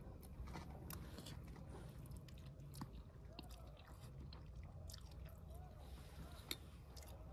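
A person quietly eating Maggi instant noodles: soft chewing with scattered small wet mouth clicks.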